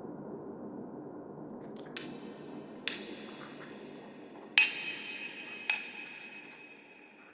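Experimental sound-design piece: a low rumbling drone fading away, with four sharp ringing pings struck over it, the third the loudest, each leaving a bright high ring.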